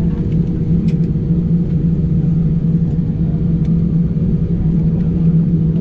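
Steady low cabin rumble of a Boeing 787-9 on the ground after landing, with a constant hum running through it.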